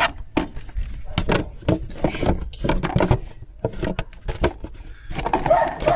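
Plastic engine cover being handled and pushed onto its rubber mounting grommets on the engine, with a series of irregular knocks and scrapes.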